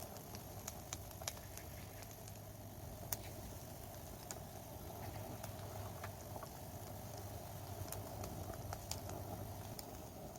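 Wood campfire crackling: sparse, sharp pops and ticks over a faint steady background.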